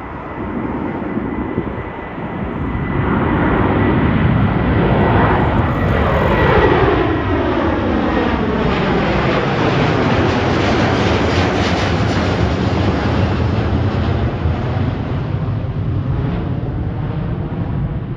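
Jet airliner passing close by with its engines running: the roar builds over the first few seconds and peaks about six seconds in, with whines that fall in pitch as it goes past, then carries on as a steady roar.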